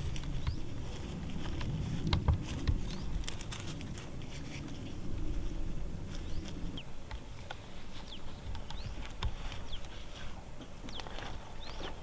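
Small birds chirping in short, high, downward-sliding calls scattered throughout, over rustling and handling noise, with a few sharp clicks about two to three seconds in.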